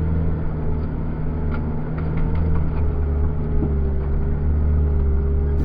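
Iveco Daily 4x4 truck's diesel engine running steadily while driving: a constant low drone with a few faint clicks in the middle.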